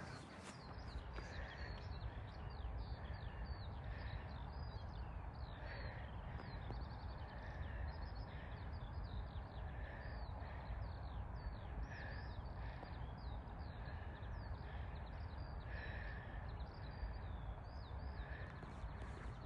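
Birds calling outdoors, many short, high, falling chirps repeating all through, with short lower calls every second or two, over a steady low rumble.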